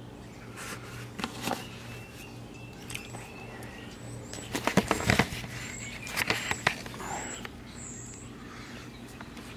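Scattered clicks and knocks of objects being handled, loudest in a quick cluster about five seconds in, with a few faint high chirps from birds.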